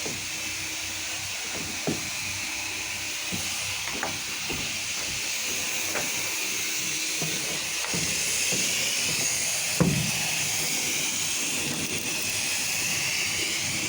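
Steady hiss of a liquid spray from a sprayer nozzle hitting a surface, with a few light knocks. One knock about ten seconds in is more distinct than the rest.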